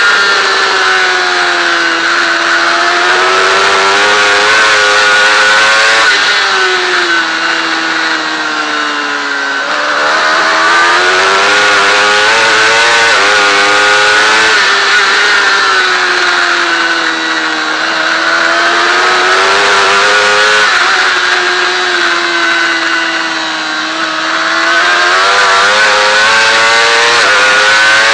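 Honda CBR1000RR superbike's inline-four engine at racing revs on track, pitch climbing and dropping repeatedly as it accelerates and slows, over a steady rush of noise.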